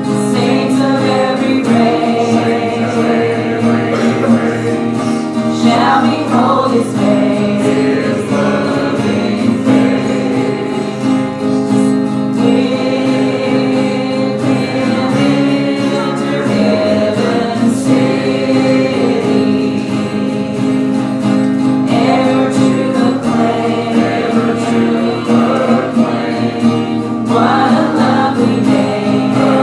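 Group of voices singing a gospel hymn together, with instrumental accompaniment.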